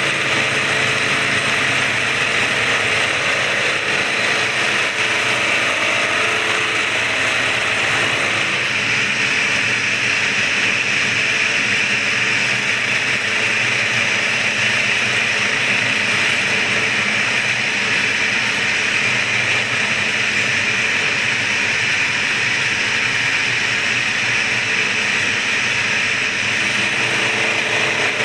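Continuous mechanical grinding and scraping as a Yamaha V80 engine block is faced flat, a steady loud rasping noise with no breaks.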